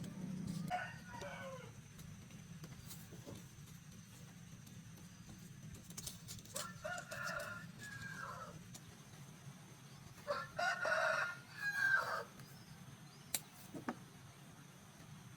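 Rooster crowing, each crow a drawn-out call of one to two seconds, repeated three times a few seconds apart.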